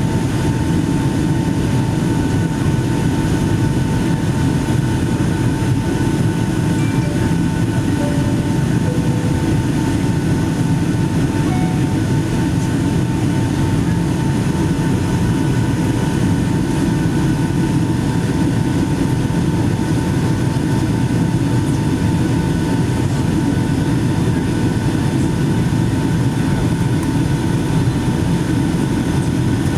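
Steady roar of a Boeing 757-200 airliner's engines and airflow heard inside the cabin, mostly a deep rumble with a thin, steady high whine over it.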